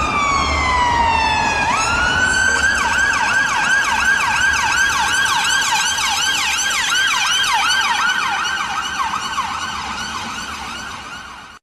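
Ambulance siren sounding: one long falling wail for about two seconds, then a fast yelp sweeping up and down about three times a second, over a low rumble. It cuts off suddenly at the end.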